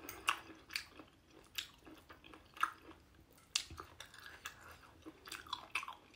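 A person chewing a mouthful of food with the lips open and closing, giving irregular wet clicks and smacks about two or three times a second.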